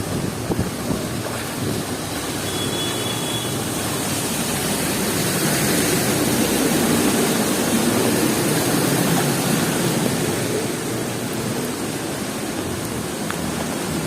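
Heavy cyclone rain and gusting wind hissing steadily on a city street, with a vehicle passing on the wet road that swells and fades in the middle.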